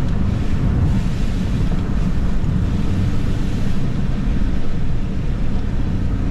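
Steady road noise inside a moving car: a low rumble of tyres and engine with some wind hiss.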